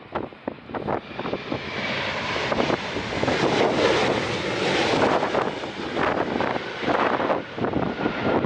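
Airliner engines passing close by: a rushing roar that builds, peaks about four to five seconds in and starts to fade, with gusts of strong wind buffeting the microphone.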